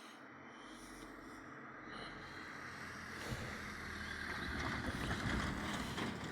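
A train approaching and passing over a level crossing. Its rumble and rail noise build steadily to a peak about five seconds in.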